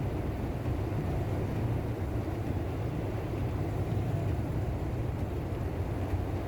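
Heavy rain falling in a city, heard as a steady low rumbling wash of noise mixed with vehicle noise.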